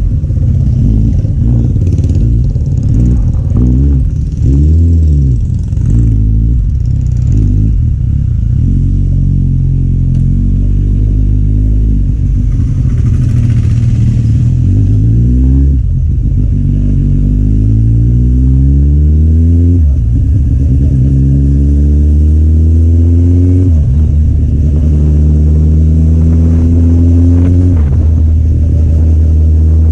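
Kawasaki Z800's inline-four engine with an Akrapovic exhaust, the bike accelerating through the gears. In the first several seconds the revs rise and fall. After that the pitch climbs steadily and drops sharply at each upshift, about four times, roughly every four seconds.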